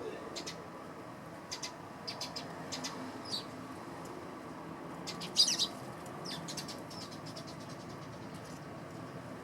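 Eurasian tree sparrows chirping in short, scattered calls, with a louder flurry of chirps about five seconds in.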